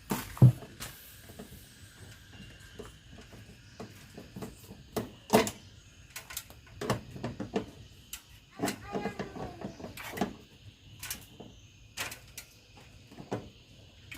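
Scattered sharp clicks and knocks, the loudest about half a second in and again around five seconds, with a brief murmur of a voice near nine seconds.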